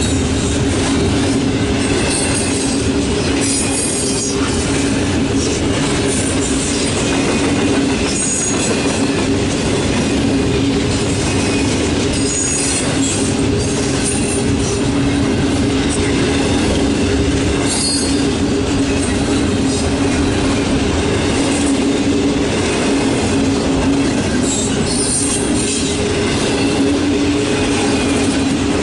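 Double-stack intermodal freight train rolling past at close range: steel wheels on rail make a loud, steady rumble and clatter. A steady droning tone runs through it, broken by a few sharp clacks.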